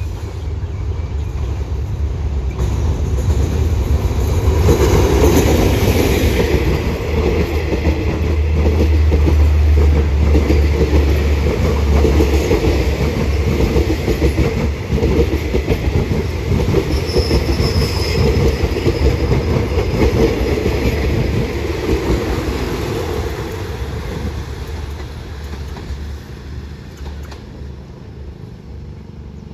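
Alsthom diesel-electric locomotive running loudly with a deep low rumble as it approaches and passes close by at speed, followed by its passenger coaches rattling and clattering over the rails, with a brief high wheel squeal about halfway through. The train sound fades over the last few seconds.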